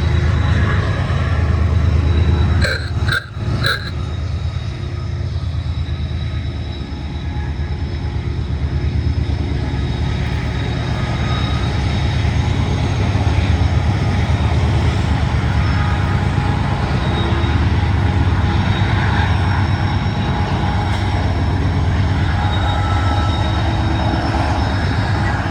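Heavy engine running with a steady low rumble and rapid even pulsing. A short clatter of knocks comes about three seconds in.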